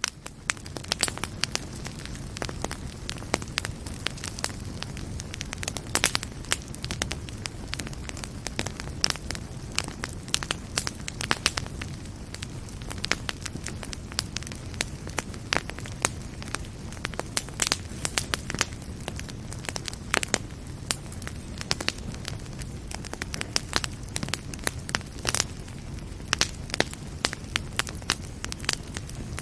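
Fireplace fire crackling, with many irregular sharp pops over a steady low rumble of burning.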